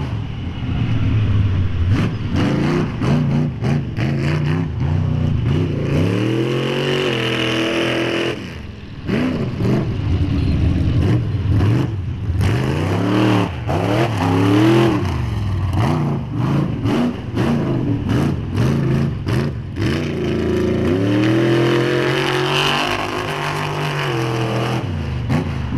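Mega truck's engine revving hard in repeated surges, its pitch climbing and falling several times, with a short drop in throttle about a third of the way in. Many sharp cracks and knocks cut through the engine sound.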